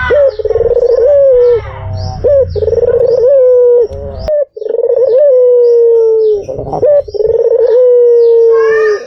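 White puter dove cooing: a run of drawn-out coos, one after another, each held at a steady pitch with a short upturn at its start.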